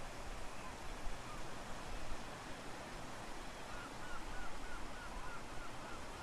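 A bird calling a quick series of short chirps, about three a second, starting a little over halfway through, over a steady outdoor hiss.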